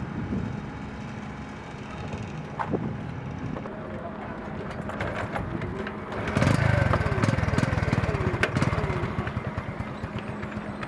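Yamaha underbone motorcycle being kick-started. After a few clicks, the engine catches about six seconds in and runs loud with a rapid beat for a few seconds, then settles to a quieter idle near the end.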